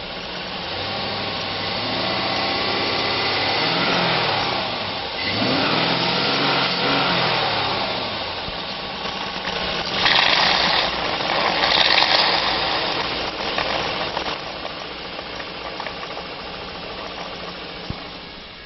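2004 Chevrolet Suburban 1500's 5.3-liter V8 running and being revved, the pitch climbing and falling several times, with two louder surges about ten and twelve seconds in, then easing back toward idle.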